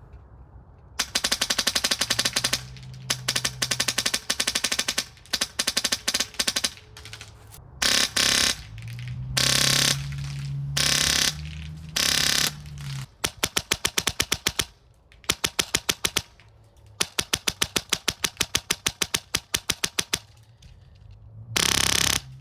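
KRYTAC SPR airsoft rifle running a Polar Star Fusion HPA engine firing fast strings of rapid semi-auto shots, about eight to ten a second, with several short half-second bursts where the shots run together.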